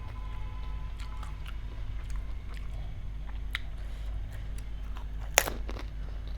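Golgappa (pani puri) being eaten: crisp fried puri shells bitten and chewed with small crackles throughout, and one loud crunch near the end. A steady low hum runs underneath.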